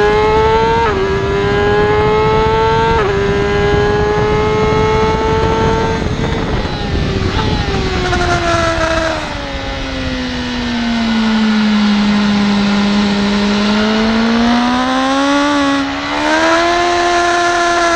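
BMW S1000RR inline-four engine under hard acceleration, its pitch climbing and dropping sharply at two quick upshifts. It then eases off and its pitch sinks low for a long stretch before climbing again with another shift near the end, over heavy wind noise.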